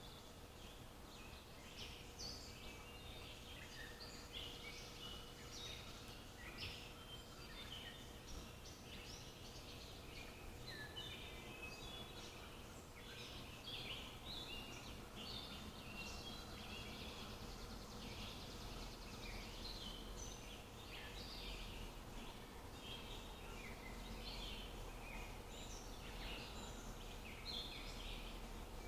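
Several birds chirping and singing, with many short calls overlapping throughout, over low background noise and a faint steady hum.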